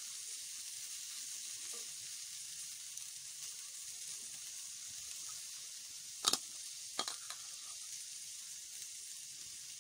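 Diced vegetables and scrambled egg frying in a steel wok, sizzling steadily, with two sharp clicks about six and seven seconds in.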